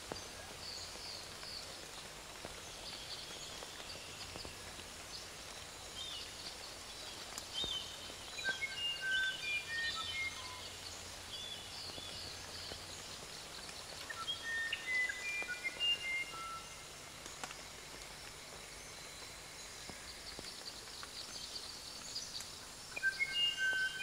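Birds singing: clusters of short, clear whistled notes a few seconds apart, over continuous fainter high-pitched chirping.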